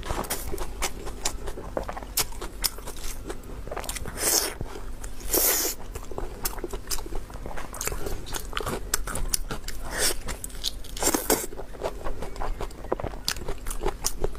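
Close-miked eating of red-braised pork belly: repeated bites and wet chewing, with many short, irregular mouth clicks and smacks.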